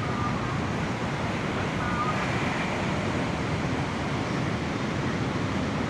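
Steady outdoor wash of wind, sea surf and road traffic, with no single event standing out; a couple of faint short tones sit above it about two seconds in.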